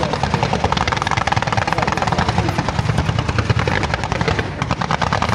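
Fireworks display: a continuous rapid-fire barrage of shells being launched and small bursts cracking, many sharp reports a second without a break.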